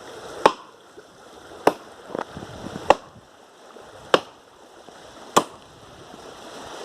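Axe chopping wood: five sharp strikes about every second and a quarter, with a softer knock between the second and third.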